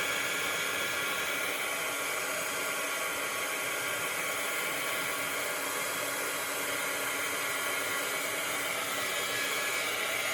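Craft heat tool running steadily: a constant rush of blown air with a steady motor hum.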